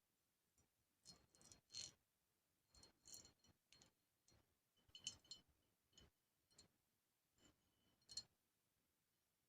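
Faint, irregular soft clicks and taps, about fifteen of them, some with a brief high ring.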